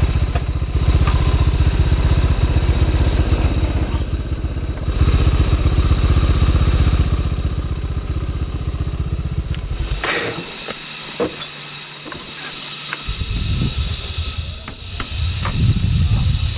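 Motorcycle engine idling with a rapid low pulse, then switched off about ten seconds in, followed by a few scattered clicks and knocks.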